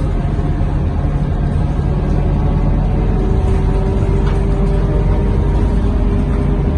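Scania K230UB city bus's diesel engine and drivetrain heard from inside the cabin while under way: a steady low rumble with a constant whine over it.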